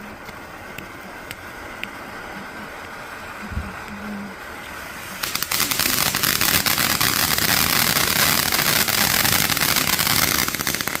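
A backyard firework fizzing and crackling: a quieter hiss for the first few seconds, then about five seconds in it flares into a loud, steady hiss full of fine crackles, dying away at the end.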